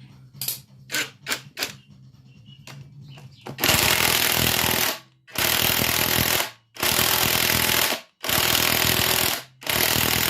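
Impact wrench hammering in five bursts of about a second each, loosening a nut. A few light clicks come first.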